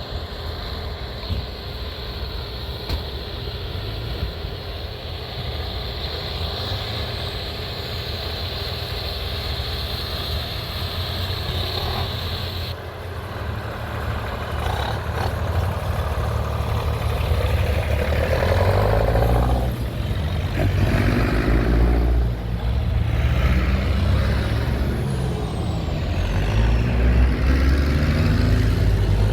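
Tractor engines running, with a steady high whine that cuts off about halfway through. Then the engine noise grows louder and shifts in pitch as engines rev or pass close by.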